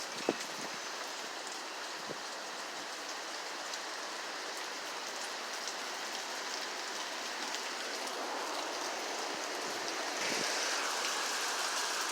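Steady rain falling, an even hiss that grows heavier and louder about ten seconds in. A single sharp click sounds just after the start.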